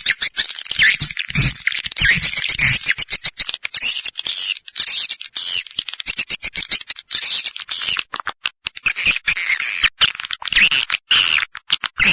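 Swiftlet call recording (suara panggil walet) played as a lure for edible-nest swiftlets: dense, fast twittering and chirping with rapid clicks. A few low thumps sound in the first three seconds.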